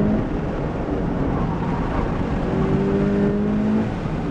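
Car engine heard from inside the cabin on an autocross run, with road rumble underneath. It eases off just after the start, then climbs steadily in pitch for about a second and a half under acceleration before letting off near the end.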